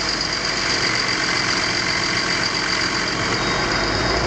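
Road traffic engines running and idling, with a steady high-pitched tone throughout and a deeper rumble building near the end.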